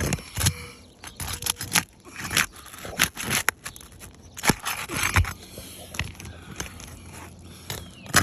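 A metal shingle-removal tool scraping and clicking against asphalt roof shingles in short, irregular strokes as it is worked under a damaged shingle.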